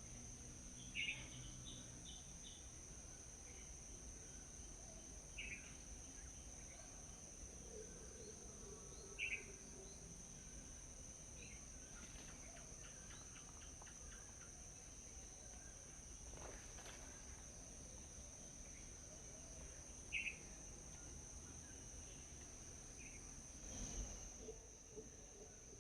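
Faint outdoor morning ambience: a steady, high-pitched insect drone, with short, sharp bird chirps breaking in about five times.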